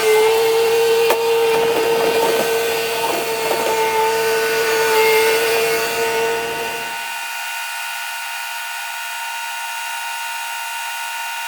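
A steady, high mechanical whine from a running motor, with evenly spaced overtones. About seven seconds in, the low end drops out abruptly and only the thin upper whine is left.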